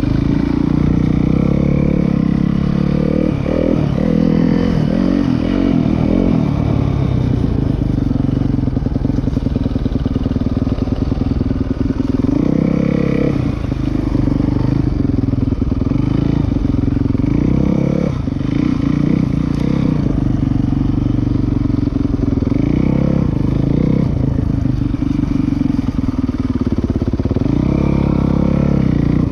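Dirt bike engine running while being ridden, its pitch rising and falling again and again as the throttle is opened and closed.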